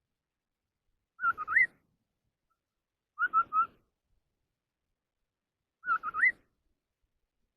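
A họa mi đất songbird giving three short whistled phrases, about two seconds apart, each of three clear notes; the first and last phrases end in a note that rises.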